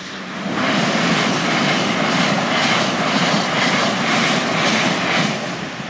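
LNER Azuma high-speed passenger train passing through a level crossing at speed: a loud rushing roar that swells in about half a second in, holds with a regular pulsing, and fades near the end.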